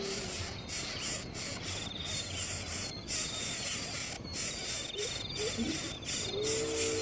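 Outdoor insect chorus, a dense high shrill buzz with brief gaps, with two short fine trills in the middle and a steady low whistled bird note starting near the end.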